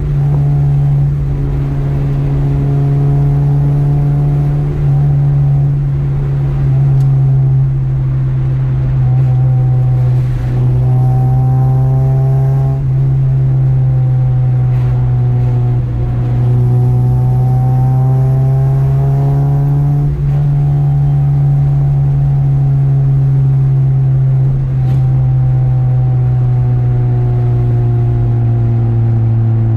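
Car engine heard from inside the cabin while driving: a steady drone whose pitch rises and falls slowly, dipping briefly every few seconds.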